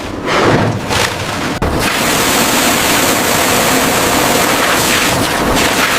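Steady rushing wind-and-sea noise on a ship's deck, after a couple of heavier surges and a sharp click in the first second and a half.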